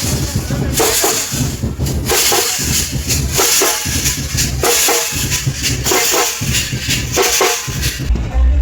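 Drum-led percussion music with loud strokes repeating about once a second over a heavy bass. Near the end it gives way to a different, bass-heavy piece of music.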